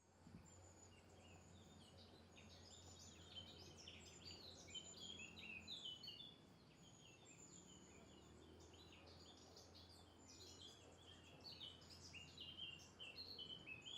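Faint ambience of several small birds chirping and twittering, busiest twice, with a low steady hum underneath.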